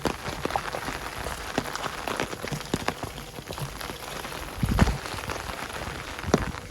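Steady rain falling, with individual drops ticking sharply and irregularly close by. A single low thud a little past halfway is the loudest moment.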